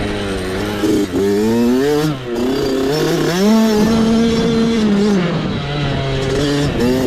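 Small off-road motorcycle engine revving up and down under race throttle, its pitch climbing and falling again and again. Midway through it holds its highest pitch for about a second and a half before dropping back.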